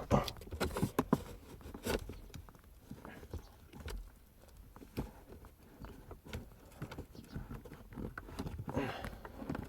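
Scattered light clicks and knocks of hands working a small plastic coin holder free from under a car's handbrake.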